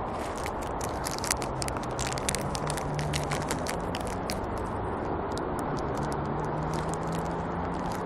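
Crinkling and crackling of a plastic bag of sunflower seeds being handled, a quick run of sharp crackles that thins out toward the end, over a steady low hum.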